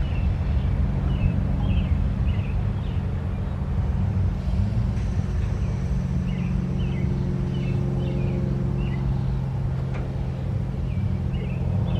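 CSX diesel locomotive engine running with a steady low drone that grows fuller about halfway through, while songbirds chirp.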